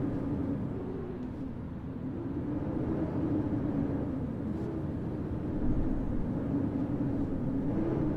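Blizzard wind blowing as a steady low rumble, with a hum that slowly rises and falls in pitch.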